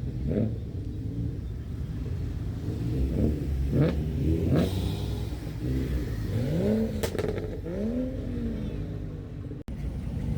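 Car engine revved in a series of short blips, each rising and falling in pitch, over the steady rumble of idling engines.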